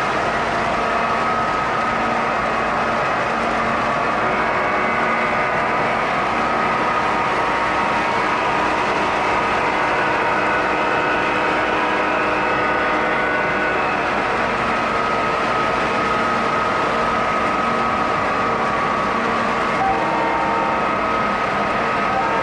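O-gauge model train running on its track: a steady, unbroken running noise with a hum that holds level throughout.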